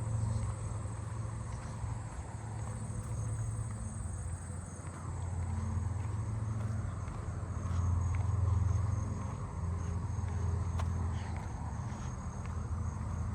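A chorus of crickets, with steady high-pitched trilling, over a low steady rumble that swells and fades.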